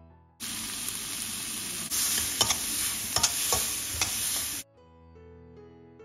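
Chopped vegetables sizzling in hot oil in a steel wok as they are stirred with a wooden spatula, with a few sharp knocks and scrapes of the spatula against the pan. The frying of the vegetable base for upma starts about half a second in, grows louder about two seconds in, and cuts off suddenly near the end, leaving soft piano music.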